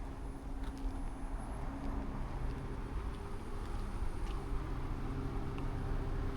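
A vehicle engine idling: a steady low hum with a few faint ticks over it.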